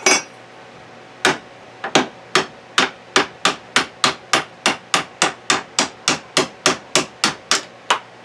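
A hammer striking a socket used as a driver, knocking a worn, rust-damaged needle bearing out of a camper gearbox case. A steady series of sharp metal-on-metal blows comes about two and a half a second, each with a short high ring.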